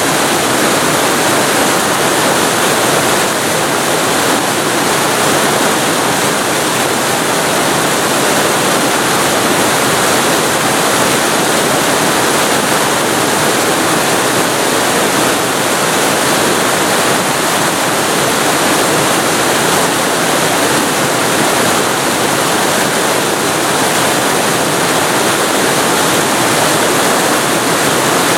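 Waterfall recorded very close to the falling water: a loud, steady rush with no breaks or changes.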